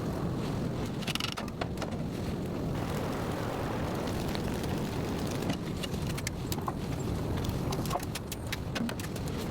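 Steady rain drumming on a car and tent, with scattered sharp ticks of drops hitting close by, more of them in the second half.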